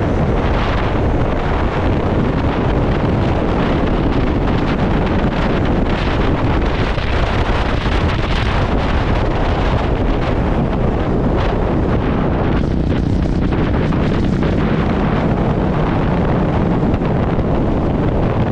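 Heavy wind buffeting a microphone: a loud, steady rush with most of its weight in the low end.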